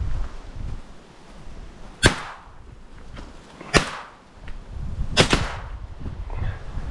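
Three shotgun shots about two seconds in, near four seconds and past five seconds, each sharp with a short echo, the last one doubled, with wind rumbling on the microphone between them.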